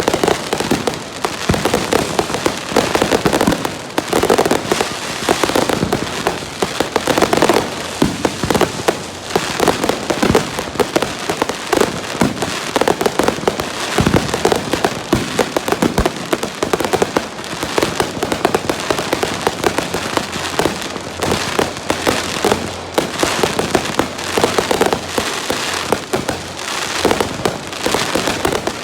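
Fireworks display in a dense, continuous barrage: many bangs and crackling bursts overlapping, with no pauses.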